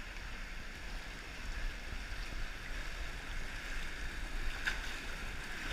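Steady wind and road noise while riding a motorbike: a constant low rumble under an even rushing hiss.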